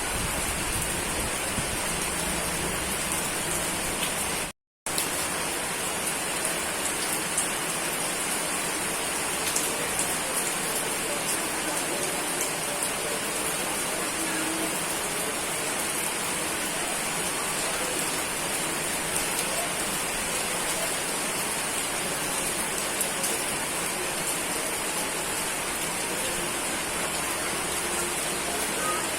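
Steady heavy rain falling, with the patter of individual drops on surfaces. The sound cuts out completely for a split second about four and a half seconds in.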